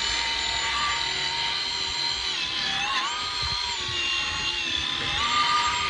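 Electric buffer with a buffing pad whining steadily as it polishes wax into a plastic headlight lens. Its pitch drops about two seconds in and climbs back near the end.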